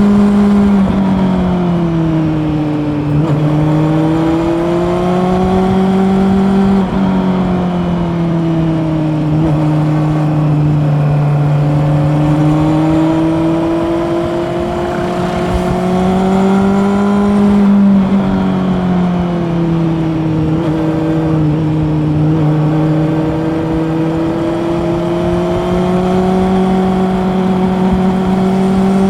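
Honda CB400 Super Four's inline-four engine running under way, its note rising and falling with the throttle over several seconds at a time. The pitch falls sharply twice, about seven and eighteen seconds in, then climbs slowly again.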